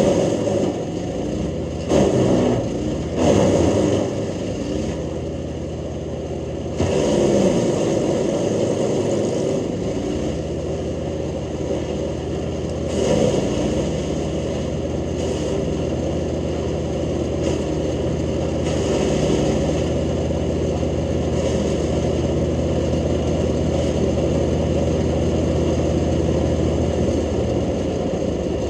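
Jansen GTS-1500 wood chipper running steadily while branches are fed through. Loud crunching surges of chipping come near the start and again a few times later, and the engine runs on its own between them.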